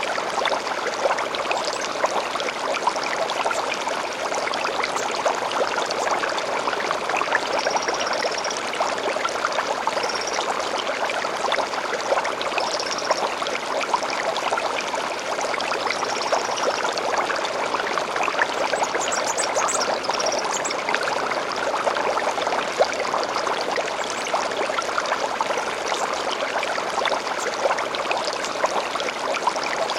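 Small stream flowing steadily over stones, a busy burbling and splashing. Short, high bird calls come every few seconds above the water, with a quick cluster of higher notes about two-thirds of the way in.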